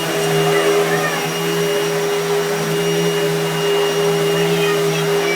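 Household vacuum cleaner running steadily, a constant motor hum over airflow noise.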